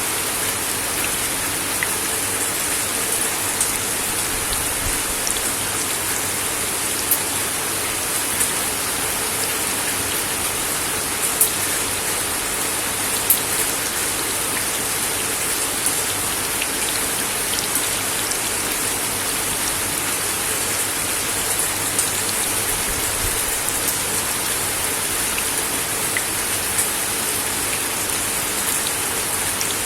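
Steady rain falling on a wooden deck: an even hiss with scattered individual drops ticking, a few louder taps standing out.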